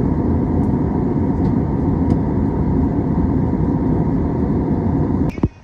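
Loud, steady vehicle running noise that cuts off abruptly near the end.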